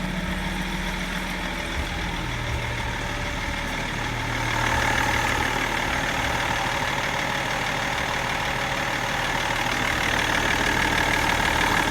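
BMW M57D30 3.0-litre straight-six turbodiesel running at idle, its pitch shifting about two seconds in and the level rising slightly about four and a half seconds in.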